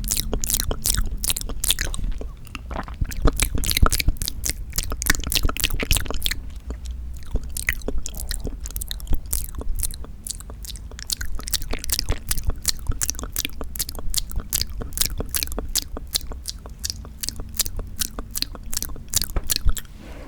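Chocolate being chewed close to the microphone: a continuous run of crisp crunching clicks, several a second.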